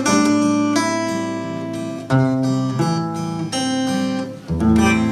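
Acoustic guitar playing a closing run of strummed chords with no singing, a new chord struck about every second and a last one near the end left ringing.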